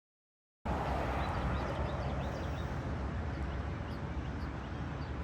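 Outdoor ambience that cuts in about half a second in: a steady low rumble with many small birds chirping.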